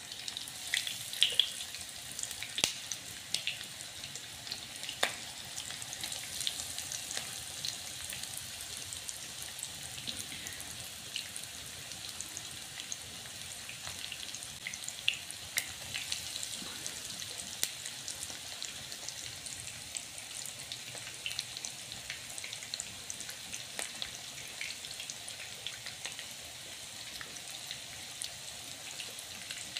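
Breadcrumb-coated minced-meat kebab patties shallow-frying in oil over a low flame: a steady sizzle full of small crackles and pops, with a few louder pops in the first five seconds.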